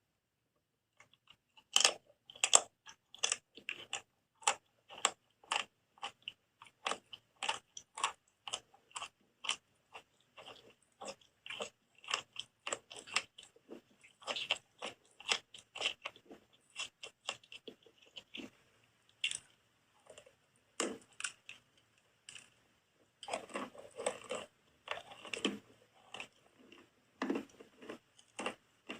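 Soap being bitten and chewed close to the microphone: a steady run of crisp crunches, about two a second, with a denser flurry of crunching near the end.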